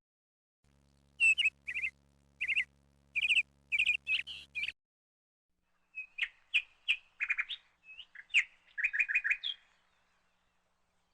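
A songbird singing two bursts of quick, high chirping notes, a second or so apart.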